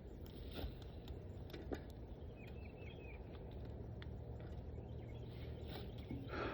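Quiet outdoor ambience with a steady low hum and a few faint clicks, and a short run of faint bird chirps about two and a half seconds in.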